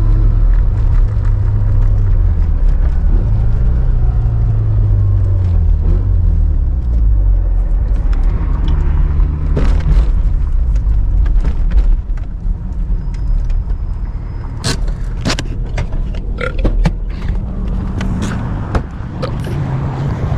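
An engine running, its pitch wavering up and down. About twelve seconds in it gets quieter, and sharp clicks and knocks follow.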